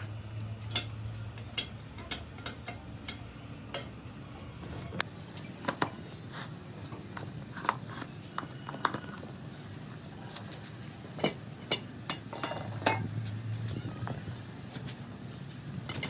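Irregular metallic clinks and taps, as of hand tools knocking against and handling metal parts, over a low steady hum that fades after the start and returns briefly later.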